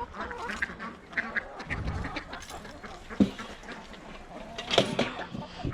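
Domestic ducks quacking, many short calls from a flock overlapping, with a single sharp knock about three seconds in.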